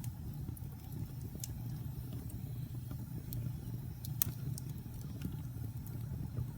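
Wood fire crackling: scattered sharp pops and snaps over a steady low rumble, with the loudest pop about four seconds in.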